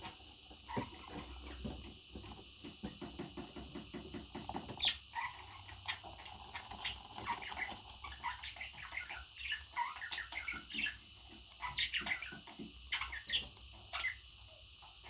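Pet parrot making short chirps and whistled calls, several sliding up or down in pitch, in quick irregular runs. The first few seconds hold a fast run of soft ticks.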